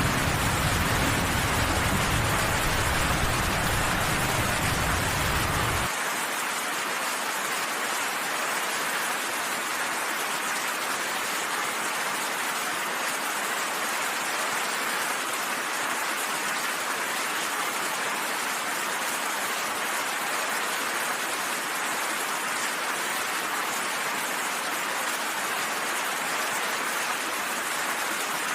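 Steady, even hiss of heavy rain, with a low rumble of thunder underneath that cuts off abruptly about six seconds in.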